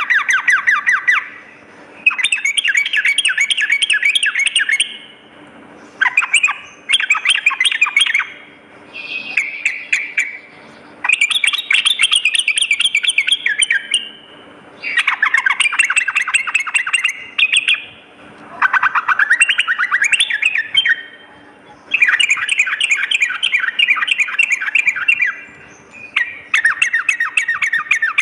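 Sooty-headed bulbul (trucukan) singing: fast rattling phrases of a second or two each, repeated over and over with short pauses between them. A faint steady hum runs underneath.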